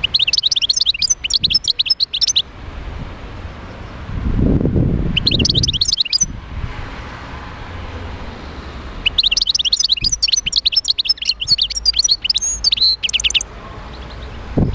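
European goldfinch singing in three bursts of rapid, high, liquid twittering, the last and longest about nine seconds in. A low muffled sound comes under the second burst.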